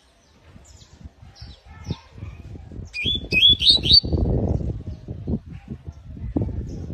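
Canary chirping in short high notes, with a quick run of four rising notes about three seconds in. Loud low thumps and rustling run under it, heaviest in the middle.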